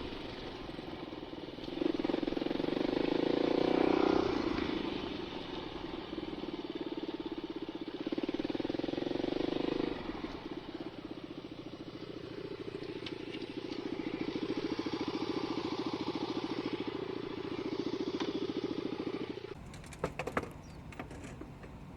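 Dirt bike engine running while riding, swelling and easing with the throttle several times. Near the end the engine sound stops and a few sharp clicks and knocks follow.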